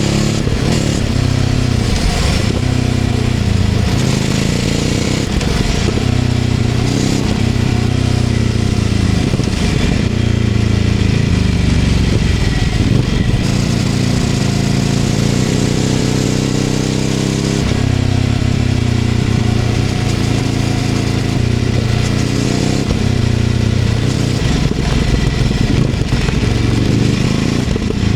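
Ducati Scrambler 800's air-cooled L-twin engine running through a LeoVince LV-10 exhaust while riding. The engine note rises and falls in pitch again and again as the throttle is opened and closed through the gears.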